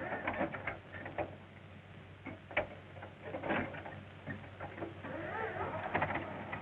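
An engine being hand-cranked: irregular clanks and clicks, then a wavering sound as the engine begins to catch near the end. The crank has to do the starting because the batteries are dead.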